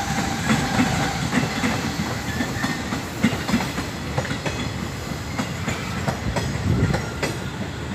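KRL electric commuter train passing close by, a steady rumble with its wheels clacking over the rail joints.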